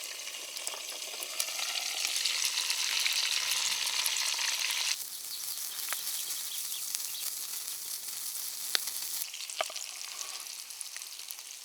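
Fish cooking over a campfire: a steady sizzle with sharp crackles and pops from the fire. The sound drops suddenly about five seconds in.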